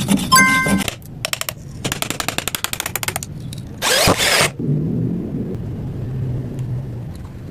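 Small power tool at work on wood: runs of rapid, even clicking at about ten a second, a short loud whir about four seconds in, then a low steady hum.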